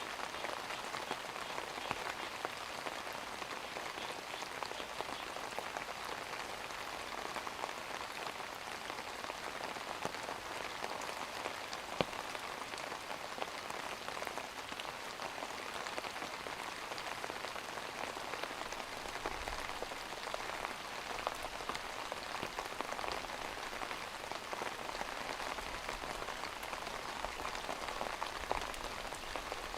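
Steady rain falling, a dense patter of drops on a surface with an occasional sharper drop standing out.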